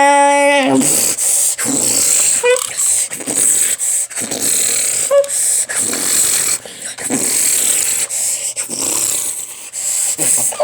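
A steady horn-like tone cuts off in the first second. Then comes a long run of hissing, crunching crash noises made by mouth, with a few short voiced squeaks: a train horn and a train hitting a tractor and derailing, imitated by voice.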